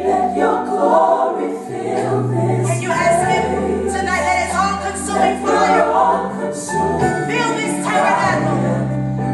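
Gospel music with a choir singing over sustained bass notes that change every second or two.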